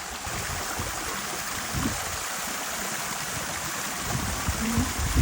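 Steady rush of running water, like a stream or water feature, with an uneven low rumble underneath.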